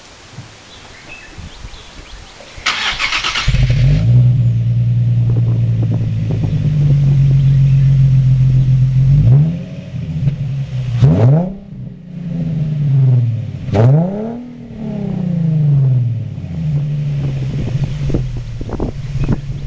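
Infiniti G35's VQ35DE 3.5-litre V6 through a muffler-delete exhaust: a brief burst of cranking about three seconds in, then the engine catches and idles steadily. About halfway through it is revved several times in quick blips, the pitch rising and falling, before settling back to idle.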